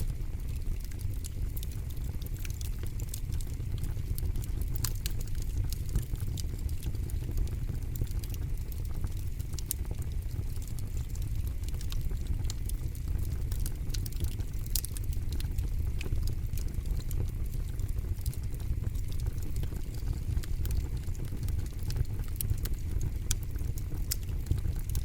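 Campfire burning: a steady low rumble of flame with frequent sharp crackles and pops scattered throughout.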